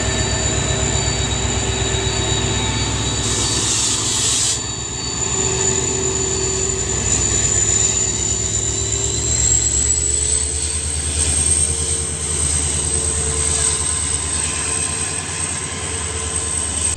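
Indian Railways EMD diesel-electric locomotive running, with a steady low engine hum and a thin high whine above it that rises slightly partway through. A short hiss comes about three seconds in.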